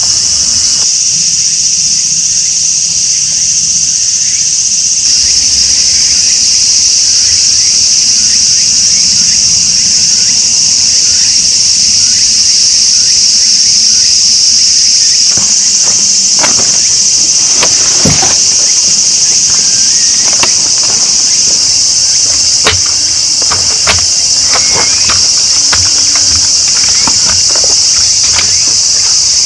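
A loud, steady chorus of insects, a continuous high-pitched trilling, with scattered light clicks and knocks starting about halfway through.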